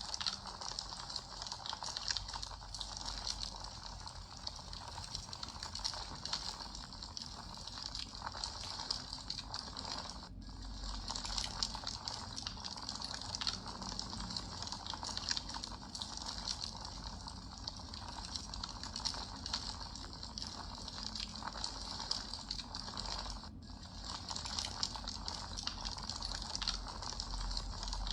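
Campfire burning, a steady hiss of flames with many small sharp crackles and pops. The sound cuts out for an instant twice, about ten seconds in and again near the end.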